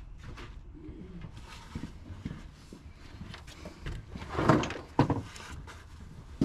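Scattered metal knocks and clanks from work on a truck's rear differential, with a short, loud voice-like sound about four and a half seconds in and a sharp knock right after.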